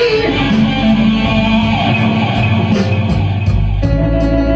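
Blues-rock band playing, with guitar to the fore over a steady drum beat.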